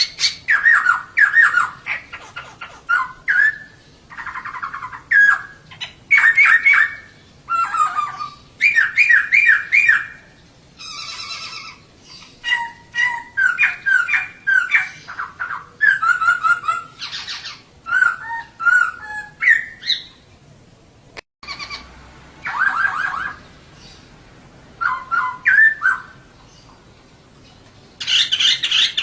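Female poksay (laughingthrush) calling in short repeated bursts of chirps and whistled notes, with brief pauses between the bursts.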